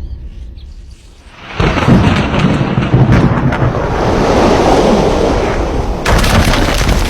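A loud rushing noise with a deep rumble, like rolling thunder. It rises suddenly after a fading boom and a short lull, and surges again near the end.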